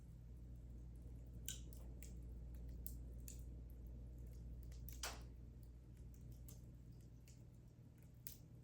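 Wood fire in a fireplace crackling: irregular sharp pops over a low steady rumble, the loudest pop about five seconds in.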